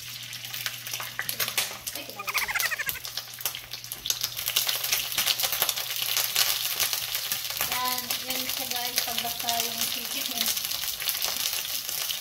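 A piece of coated chicken wing frying in a shallow layer of hot oil in a nonstick skillet: a dense sizzle full of small crackles that grows fuller a few seconds in. The wings are already cooked and are being crisped in the oil.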